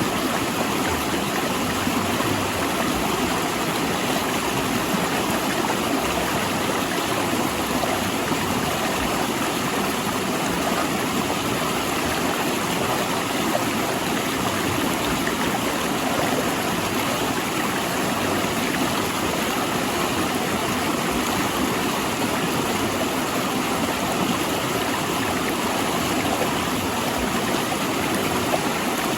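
A rocky mountain river rushing and splashing over large boulders, a steady, even roar of fast water.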